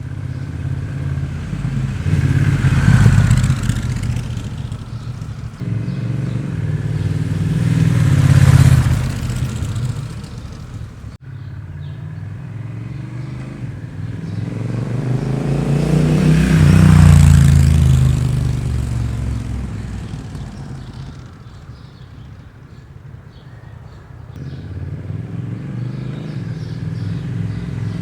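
Honda CMX1100 Rebel's parallel-twin engine through a Miller exhaust with the Racing db-Absorber baffle, as the motorcycle rides past three times. Each pass swells to a loud peak and drops in pitch as it moves away, and another approach builds near the end.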